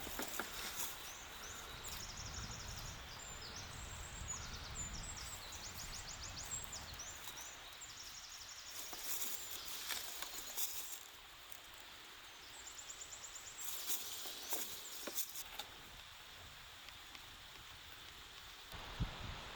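Forest ambience with small songbirds singing high, quick trilling phrases, mostly in the first third and again briefly past the middle, over a steady outdoor hiss and a few sharp clicks and rustles.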